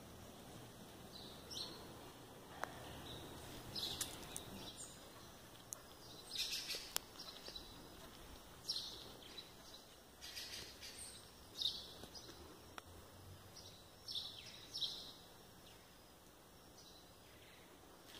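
Birds chirping: short, high calls every second or two over faint outdoor background noise.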